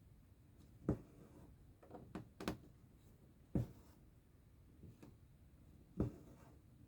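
Cross-stitching by hand: a needle pushed through stretched fabric and the thread pulled after it, giving about five sharp pops with fainter rustling between them.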